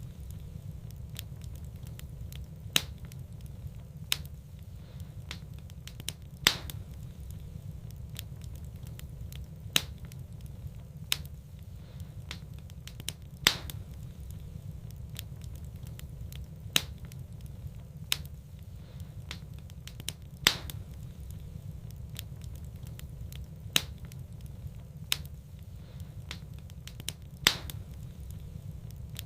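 Wood fire burning in a fireplace: sharp crackles and pops every second or few over a steady low rumble.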